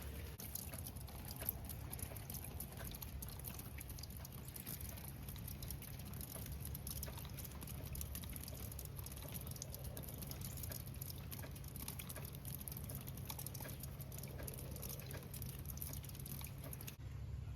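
Steady light rain pattering, a dense run of fine drops over a low steady rumble.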